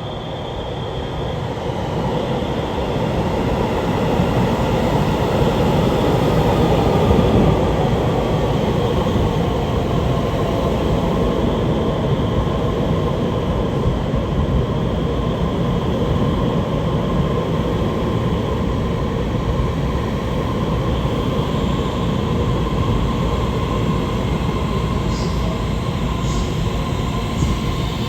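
Taiwan Railway EMU3000 electric multiple unit pulling into a station. Its running noise of wheels on rails grows louder over the first several seconds, then holds steady, with a faint steady whine over it.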